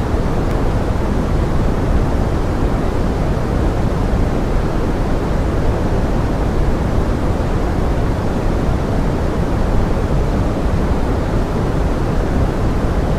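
Steady pink noise blended with forest rain: an even, unbroken hiss weighted toward the low end.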